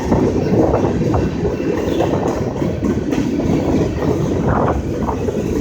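Freight cars of a long manifest freight train rolling past close by: a steady, loud noise of steel wheels on the rails with light clatter.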